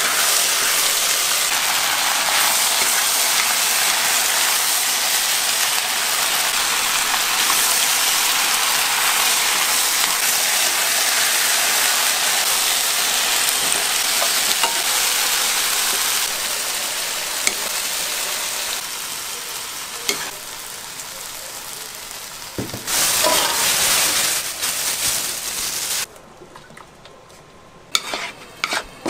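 Food sizzling as it fries in a pan, with a steady loud sizzle that weakens after about sixteen seconds. Near the end the sizzle drops away sharply, leaving a few sharp knocks.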